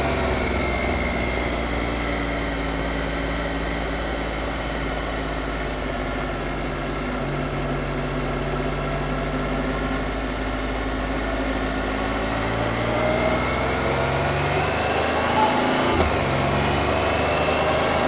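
Can-Am Spyder three-wheeler's engine running while riding, a steady drone whose pitch eases down and then climbs again after about twelve seconds, over a heavy low rumble.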